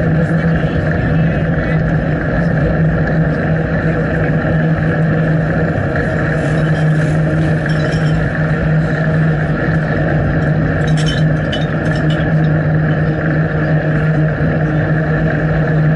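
Steady rushing wind and riding noise on a bicycle-mounted action camera's microphone, with a constant low hum underneath and a few faint ticks about two thirds of the way in.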